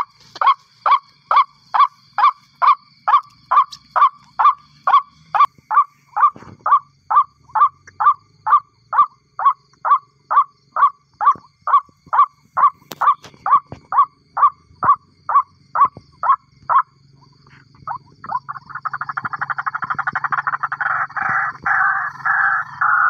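White-breasted waterhen (ruak-ruak) calling: a steady series of short, identical notes, about two a second, for some seventeen seconds, then after a brief pause a louder, fast rattling chatter.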